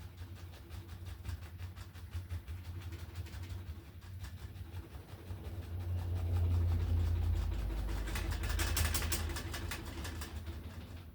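Paintbrush scrubbing and tapping paint onto a canvas in quick, rapid strokes to haze in mist, getting louder about six seconds in, over a low steady hum.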